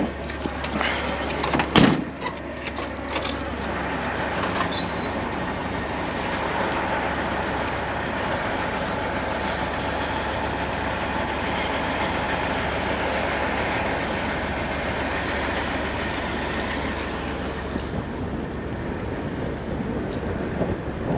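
Steady vehicle engine noise, with a few sharp knocks and clatter in the first two seconds, the loudest about two seconds in.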